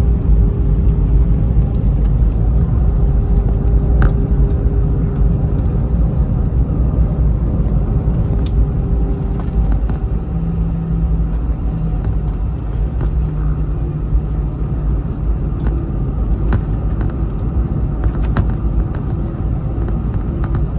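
Cabin noise inside an Airbus A320 rolling on the ground after landing: a steady low rumble with the hum of its CFM56 engines, and a few faint clicks and rattles.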